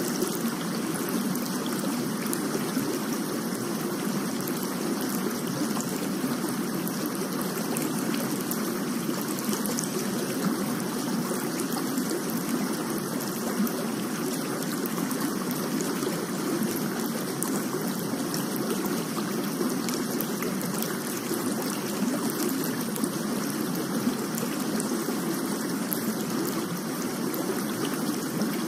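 Steady rain: an even hiss of falling water with faint ticks of single drops.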